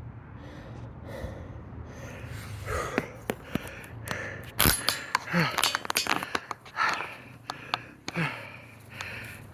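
Footsteps through undergrowth, with many sharp snaps and clicks of twigs and brush, and a person's hard breathing with a few short grunts.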